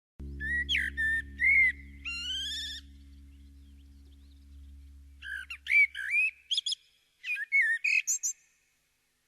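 Birdsong: short phrases of clear, gliding notes and quick trilled twitters, over a low steady drone that fades out about two-thirds of the way through, as part of a music track.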